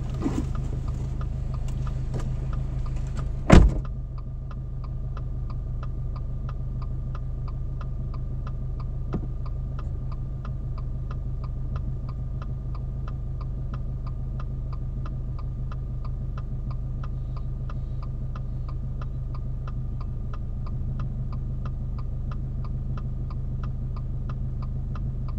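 Car engine idling steadily, heard from inside the car; a car door shuts with a single thud about three and a half seconds in. From then on a regular, even ticking runs over the idle.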